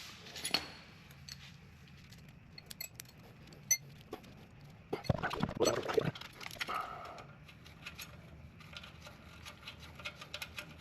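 Light clicks, taps and small metal clinks from handling and bending a steel brake line by hand, with a busier stretch of rattling and scraping about five to seven seconds in.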